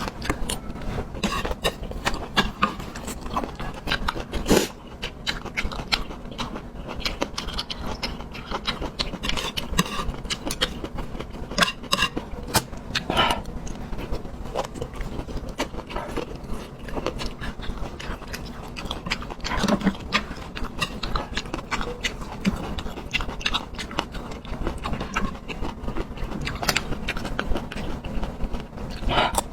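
Close-miked eating: a person chewing and biting food, with many short, irregular mouth clicks and smacks.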